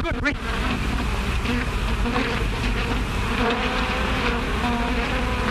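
Bees buzzing in a swarm: a steady, dense drone whose pitch wavers.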